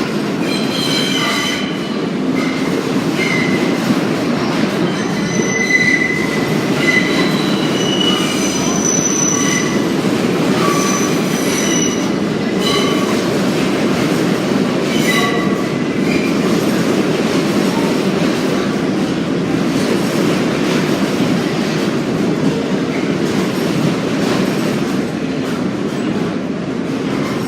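R32 subway cars on the J line running on the rails with a steady rumble. Steel wheels squeal on and off through roughly the first half.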